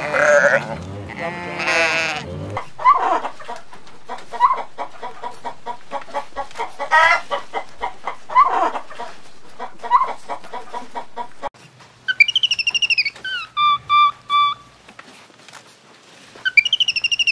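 Sheep bleating for the first couple of seconds, then domestic hens clucking with short repeated calls. For the last few seconds a short flute-like jingle of gliding and short high notes plays twice.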